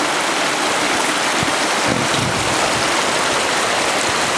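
Rushing stream water: a loud, steady rush of a mountain river.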